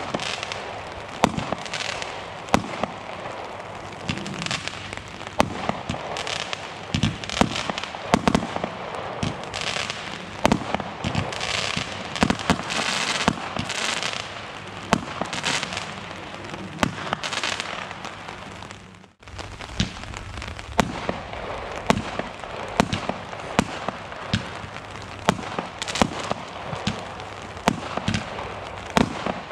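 Consumer firework batteries firing: a rapid string of sharp bangs and pops mixed with crackling. The firing breaks off abruptly about two-thirds of the way through, then another barrage starts.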